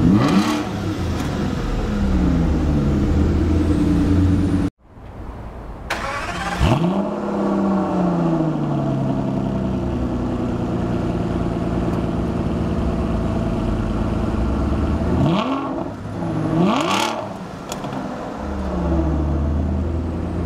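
2012 Aston Martin Virage V12 idling just after start-up, the idle settling lower, first heard from the driver's seat and then from behind at the twin exhausts. After a brief gap the engine is revved about six seconds in and twice more about ten seconds later, each rev falling back to a steady idle.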